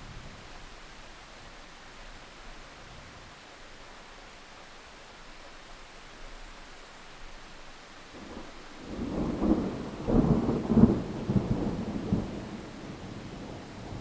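Steady rain falling, with a peal of thunder about two thirds of the way in that rumbles and cracks for several seconds and then rolls away.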